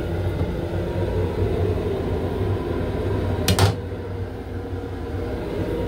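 Steady low rumble and hum of an M7 railcar heard inside its restroom. About three and a half seconds in comes a single sharp knock as the plastic toilet lid is raised.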